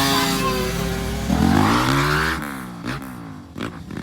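Motocross dirt bike engine revving: it runs steady, climbs in pitch about a second in, then drops away into a few short throttle blips.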